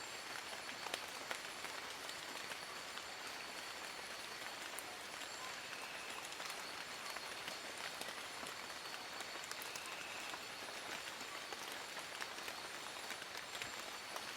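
Steady rain falling on leaves, a constant hiss with many separate drops ticking sharply throughout, and a faint steady high-pitched tone underneath.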